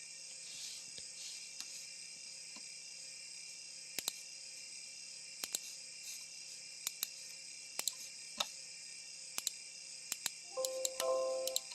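Scattered, irregular sharp clicks of a computer mouse and keyboard over a steady high-pitched hiss. Near the end there is a brief tone lasting about a second, stepping between a few pitches.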